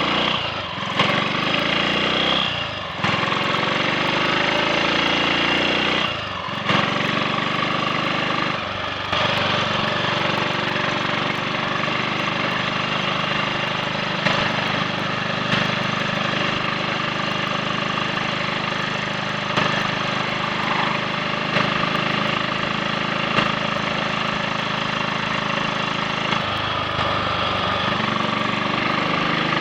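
Triumph Sports Cub's single-cylinder four-stroke engine under way on the road, with short dips and rising pitch four times in the first nine seconds as it changes up through the gears, then running steadily at cruising speed. It runs without cutting out, its misfire cured after rust was cleared from the fuel tank.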